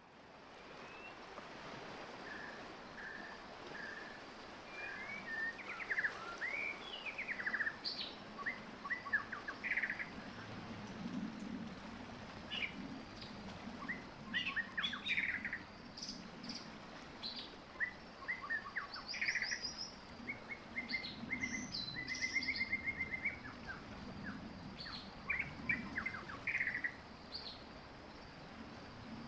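Several birds chirping and calling: short slurred notes and a few quick trills come and go throughout, over a steady low background noise.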